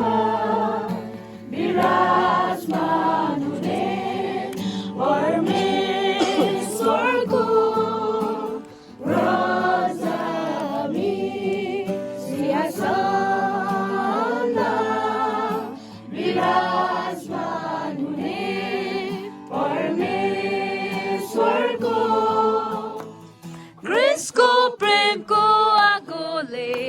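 A Nepali Christian worship song sung by a group of voices, in phrases with long held notes.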